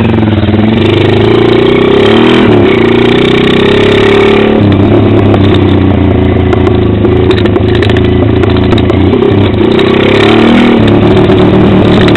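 Pit bike engine running loud under throttle on a lap. Its note changes abruptly about four and a half seconds in and again near the end as the throttle or gear changes.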